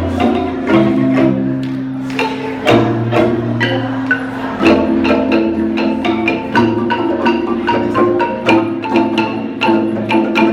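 Kolintang ensemble playing: quick runs of struck wooden bars over held low bass notes, several strikes a second.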